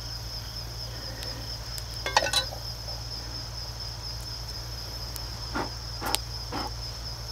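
Insects trilling steadily on one high, unbroken note, with a few faint clicks about two seconds in and again near the end.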